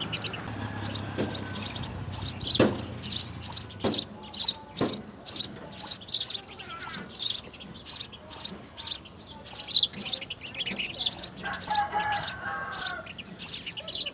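House sparrows chirping, short high chirps repeated about two to three times a second without a break.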